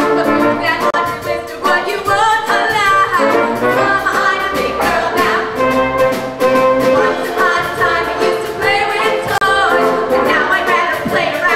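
Live concert performance by a choir with concert band: massed voices singing over brass and band accompaniment, continuous and full.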